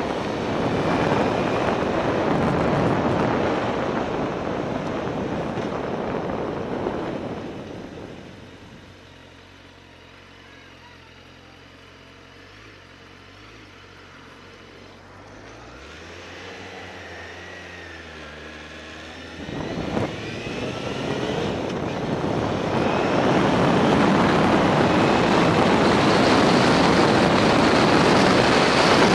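Motorcycle ride heard through a helmet-mounted camera: heavy wind rush on the microphone at speed, fading after about seven seconds to the engine's steady idle, whose note climbs as the bike pulls away again about sixteen seconds in, after which the wind rush builds back up.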